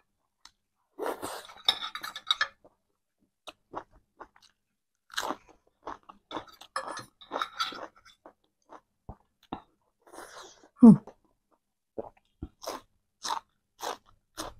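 Close-miked eating: chewing with crisp, crackly crunching bites, the sharp crunches near the end from biting raw cucumber slices. One louder short sound with a falling pitch about eleven seconds in.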